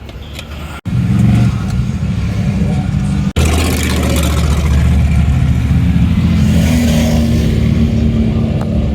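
Off-road truck engines running hard and revving in mud bogging footage, loud and continuous. There are two abrupt cuts between clips, about a second in and again a few seconds later.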